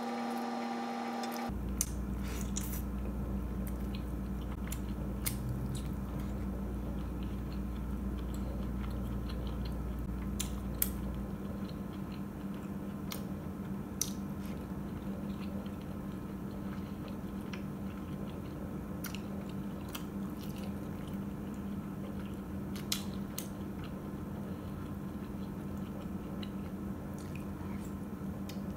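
A person chewing and biting soft oden pieces (fish cakes, dumplings) in broth close to the microphone, with wet squishing mouth sounds and a few sharp clicks now and then. A steady low hum runs underneath.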